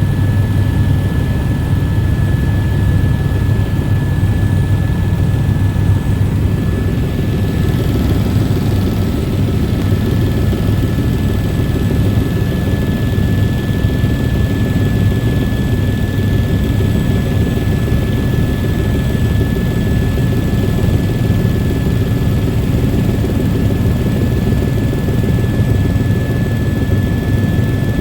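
Helicopter in flight: a steady low drone of rotor and engine with a thin, high-pitched whine held over it.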